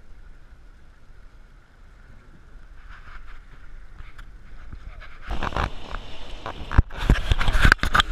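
Water splashing and rushing around a canoe, with wind buffeting the microphone, quiet at first and turning loud and choppy about five seconds in.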